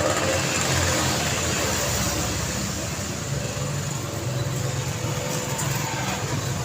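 Steady road traffic: a continuous wash of passing cars' tyre and engine noise with a low engine rumble, slightly louder in the first couple of seconds as a vehicle passes close.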